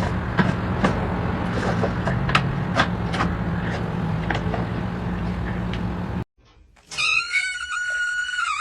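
A steady low hum with scattered clicks, then after a sudden cut a long drawn-out cat meow that holds its pitch and then slides down.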